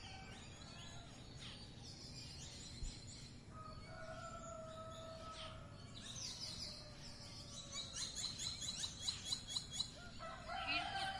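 Small birds chirping and twittering, with a fast run of repeated chirps between about eight and ten seconds in, over steady low background noise.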